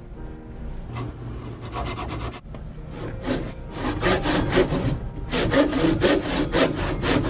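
Hand saw cutting through wood in back-and-forth strokes, light at first, then from about three seconds in a steady run of about three strokes a second.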